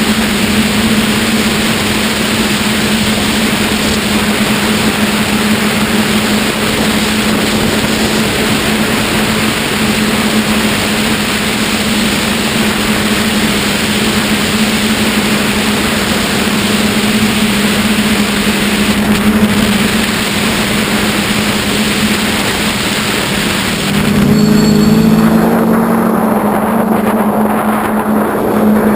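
QAV540G quadcopter's motors and propellers humming steadily under a dense hiss of wind. About 24 seconds in, the hiss drops away and the hum's pitch dips and climbs back.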